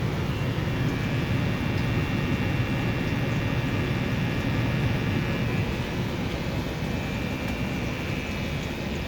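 Two twinned furnaces running together with burners lit during a combustion test: a steady low roar of flame and blowers, with a faint high whine on top for parts of it.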